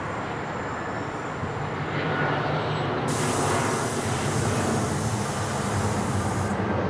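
Jet engines of an approaching Airbus A320 airliner, a steady rumble with a low hum that grows louder about two seconds in as the plane nears.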